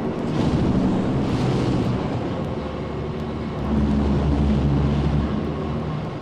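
A low, engine-like mechanical rumble with a few steady tones, swelling louder about three and a half seconds in and easing off after about five seconds. It comes off a sound-effects vinyl record, with faint surface ticks.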